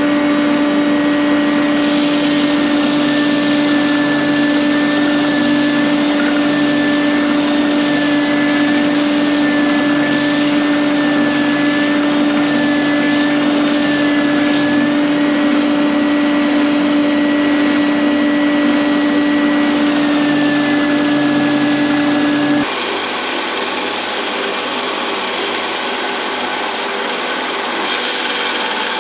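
Electric woodworking saw running and cutting pine, with a steady hum and a higher whine that wavers a little as the blade works. About 23 seconds in the sound changes abruptly to a rougher machine noise without the hum.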